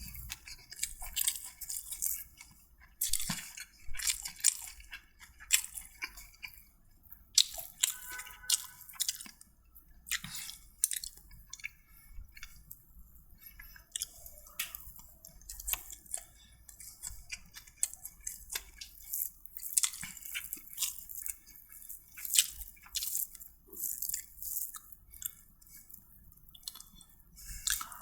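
A person chewing and eating food close to the microphone, with many short, irregular wet mouth clicks.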